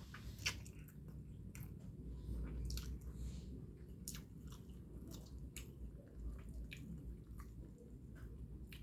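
Close-miked chewing of a mouthful of egg noodles and rice, with irregular wet mouth clicks and smacks.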